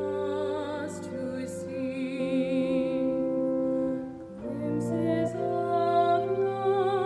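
Slow music: a voice singing long held notes with vibrato over sustained accompaniment, with a short break about four seconds in.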